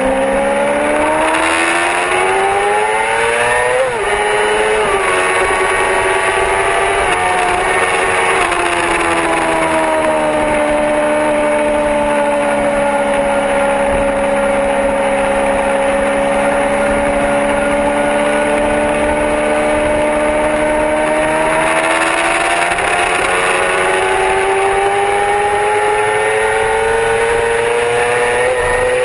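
Yamaha R6 sport bike's inline-four engine heard on board, pitch rising under acceleration with a quick upshift drop about four seconds in. The revs fall off around eight seconds, hold fairly steady through the middle, then climb again toward another shift near the end, over a steady rushing hiss.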